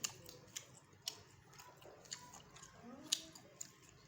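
Close-up mouth sounds of a person chewing sate padang: irregular sharp wet clicks and smacks about every half second. A brief faint hum-like voice sound about three seconds in.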